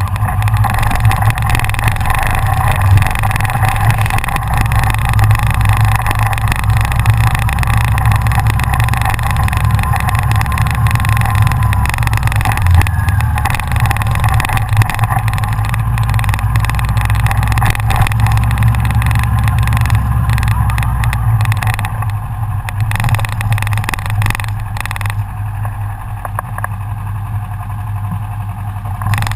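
Engines running steadily with a deep, low hum; a lower drone drops out about two-thirds of the way through.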